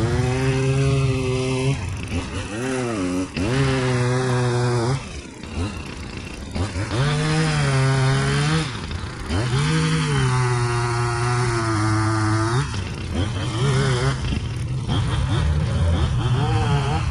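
Small two-stroke engine of an Echo saw revving up to high speed, holding there for a second or two, then dropping back, several times over, with a lower, steadier run in the last few seconds.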